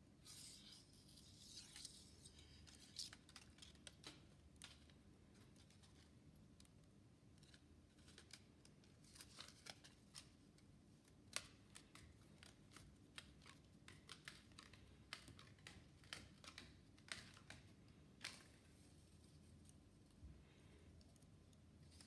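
Faint, irregular small clicks and scrapes of handwork with tools or small parts, one a little louder about halfway through, over a steady low hum.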